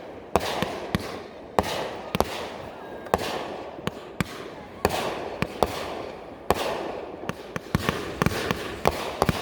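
Aerial fireworks going off: an irregular string of sharp bangs, several a second, over a continuous haze of sound.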